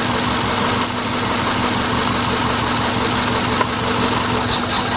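2000 Subaru Impreza's 2.2-litre flat-four engine idling roughly with a misfire, running steadily under a broad hiss. A light click comes about three and a half seconds in.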